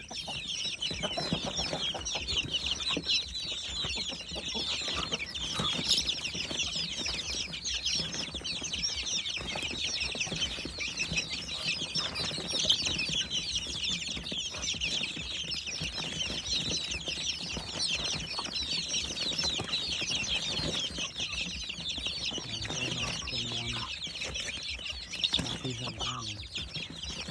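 A flock of young chicks peeping continuously, many short high-pitched cheeps overlapping into a dense chorus.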